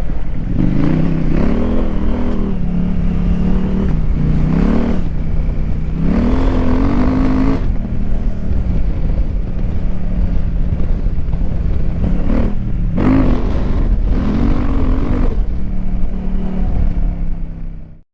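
KTM 890 Adventure R's parallel-twin engine through a Wings aftermarket exhaust, under way: it revs up in pitch four times, with stretches of steady running between. The sound cuts off abruptly at the very end.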